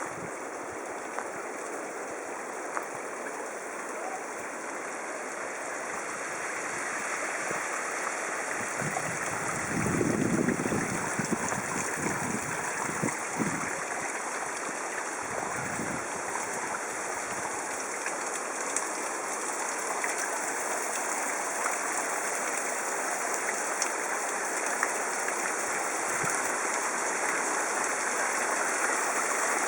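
Rushing stream water, a steady hiss that grows gradually louder, with a brief low rumble about ten seconds in.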